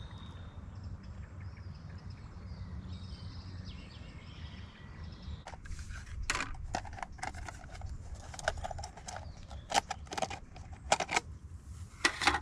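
Outdoor ambience: a low steady rumble with faint bird chirps, then from about halfway a run of irregular sharp clicks and knocks.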